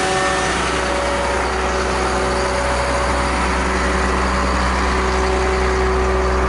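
International diesel line truck's engine idling with its shaft-driven generator running: a steady low drone with a steady whine of several tones over it.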